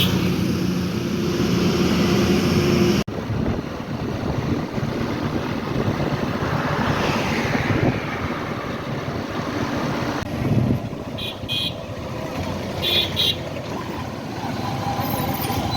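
Truck engine running with a steady drone on a steep climb, cut off abruptly about three seconds in; then the road and wind noise of the moving truck, with two short horn toots in the second half.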